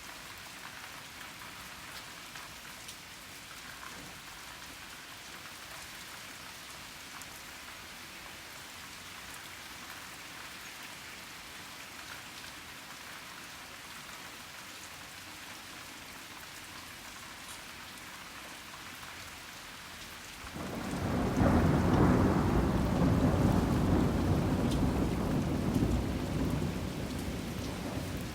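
Steady rain falling in a thunderstorm. About twenty seconds in, a loud rumble of thunder breaks in suddenly and rolls on, easing slightly near the end.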